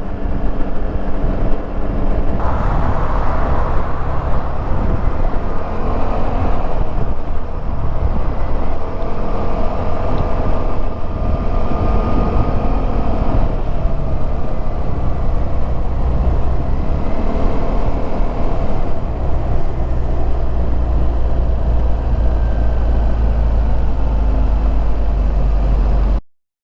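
Suzuki Burgman 200 scooter's single-cylinder four-stroke engine running while riding, its pitch rising and falling with the throttle over a heavy low rumble. The sound cuts off suddenly near the end.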